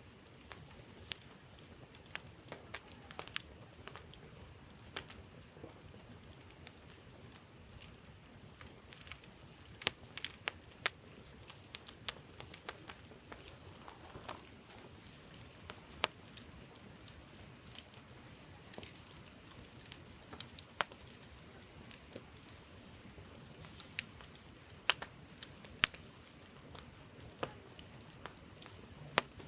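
Wood campfire crackling: irregular sharp pops and snaps, some much louder than others, over a faint steady hiss.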